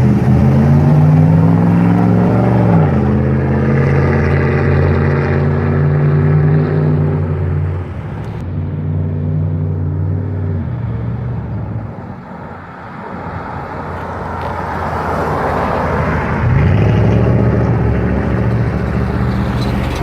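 GMC Savana van engine running through a custom stainless steel exhaust. The revs climb for the first few seconds and hold steady, step down about eight seconds in and die away. They pick up again about four seconds before the end and hold.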